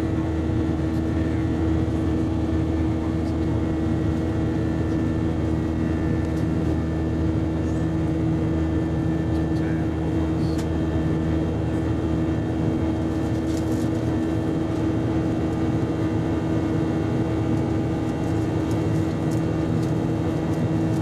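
Steady cabin drone of an Airbus A319 airliner in flight: engine and airflow noise with a constant low hum and several steady tones held unchanged throughout.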